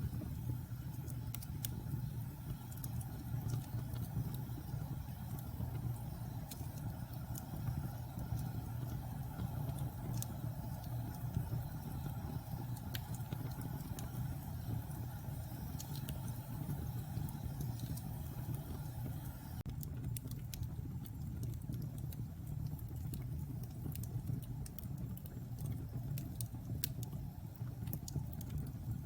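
Wood fire burning in a fireplace: a steady low roar of flames with scattered small crackles and pops at irregular moments.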